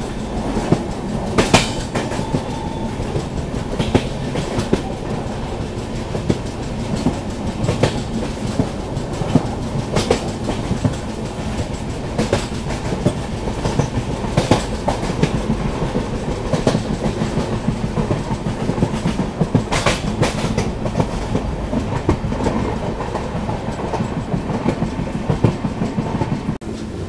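Mewar Express passenger train running at speed, heard from an open coach door: a steady rolling rumble of wheels on rail, with sharp wheel clacks over rail joints every few seconds.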